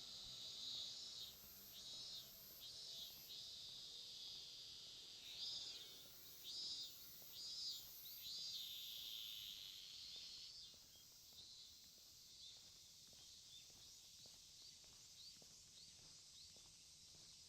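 Insects singing: a high buzzing chorus that swells and fades in a series of pulses, then holds steady before stopping about ten seconds in.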